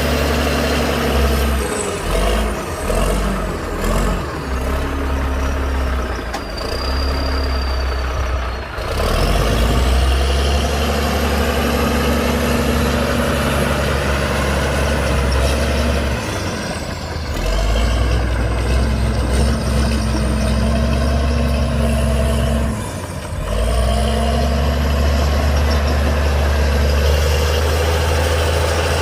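Heavy diesel earthmoving machinery at work: a deep, loud engine drone that sags briefly about three times, with a thin high whine that slides down and climbs back up.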